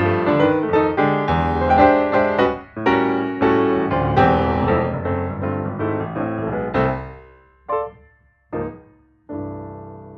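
Background piano music: a run of chords and notes, thinning after about seven seconds to a few single notes, the last one left to ring and fade.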